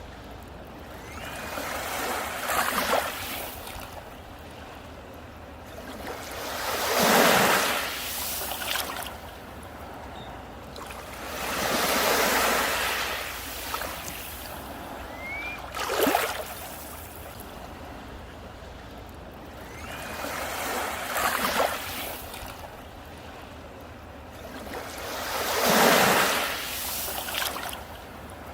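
Sea waves breaking and washing up a beach, a rushing surge that swells and falls away about every four to five seconds, six times over, between steady low surf.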